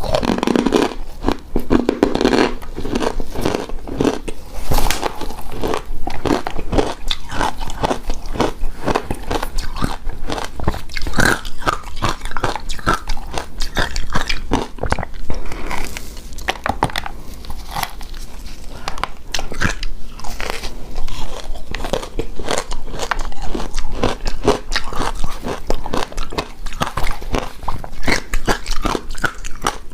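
A person chewing and crunching mouthfuls of shaved snow ice dessert, a dense run of irregular crisp crunches.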